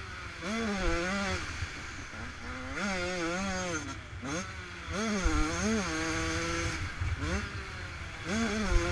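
Yamaha YZ125's two-stroke single-cylinder engine revving hard and dropping back over and over, its pitch climbing with each burst of throttle, under the rumble of wind buffeting a helmet-mounted microphone.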